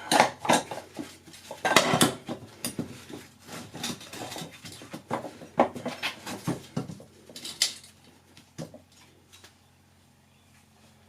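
Metal pieces clattering and knocking against each other, a quick run of sharp clanks that thins out and dies away about eight seconds in.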